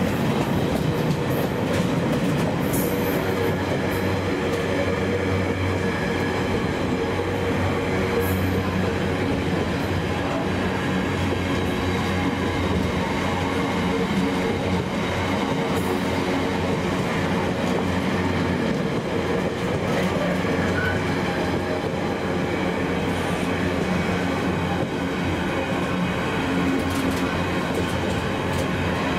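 Train running through the station: a steady, unbroken rumble with a low hum and wheels running on the rails.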